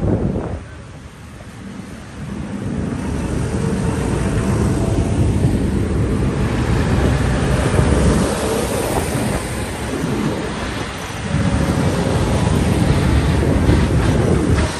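Tractor engines running as tractors drive past. The sound drops briefly about a second in, then swells and holds, with some wind on the microphone.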